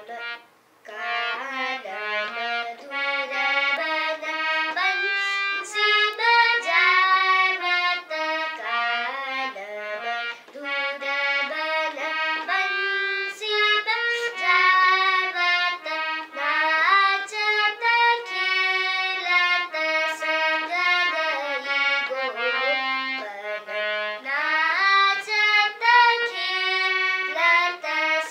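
A little girl singing a melody in a high, clear voice, with held notes that glide and bend between pitches and short breaks between phrases.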